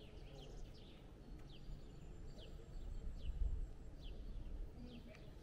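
A small bird calling: a short, high, falling chirp repeated about once a second, over a low rumble that swells briefly in the middle.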